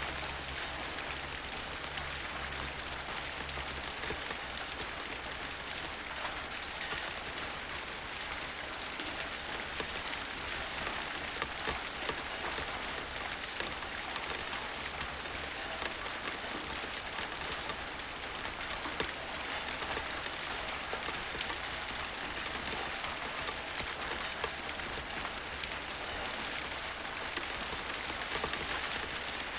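Steady rain falling, a dense even patter of many drops. A low rumble of distant thunder fades out about four seconds in.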